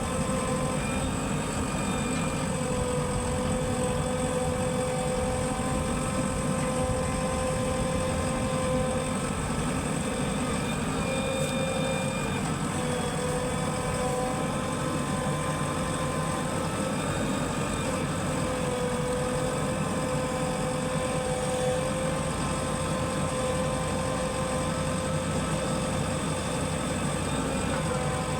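Heavy machinery engine running steadily, with a steady whine over the engine note.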